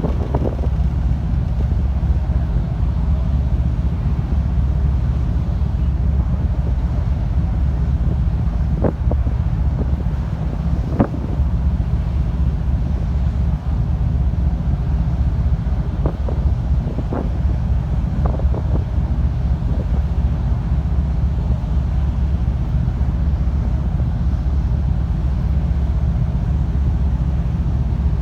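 Steady low rumble of a car ferry's engines under way, mixed with wind noise on the microphone. A few faint short squeaks or clicks come through around the middle.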